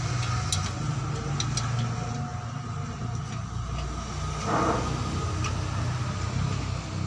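A motor running steadily with a low hum under light metallic clicks and taps of hand tools, as differential bolts are worked loose and the housing is pried. A brief scraping rasp comes about four and a half seconds in.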